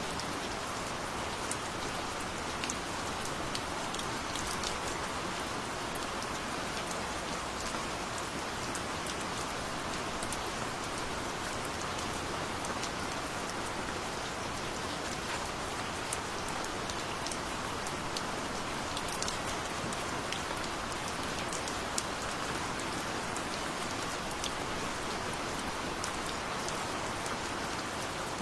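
Steady, even rain falling, with many fine, distinct drop ticks over the constant hiss.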